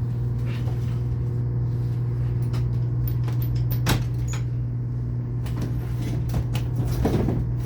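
Steady low hum of the running tugboat's machinery heard inside a cabin, with a few clicks and knocks from a door being handled, the sharpest about four seconds in.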